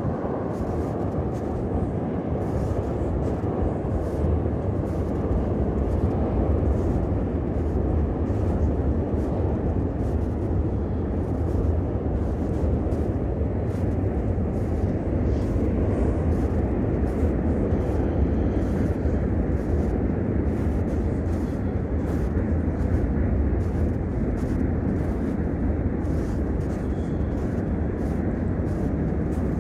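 Steady low rumble of city traffic. Faint regular footsteps, about two a second, sound throughout.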